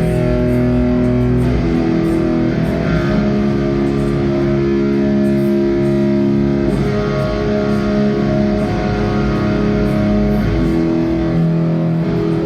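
Electric guitar through an amplifier playing long, ringing chords that change every few seconds: a guitar line check during a soundcheck.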